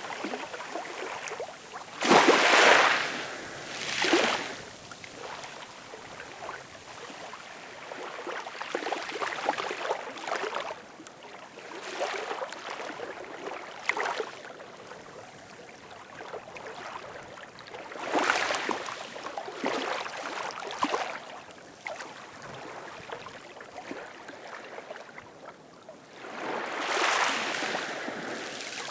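Ocean waves washing in and fizzing back. Several surges come through, the loudest about two seconds in and others around the middle and near the end, with a softer hiss of water between them.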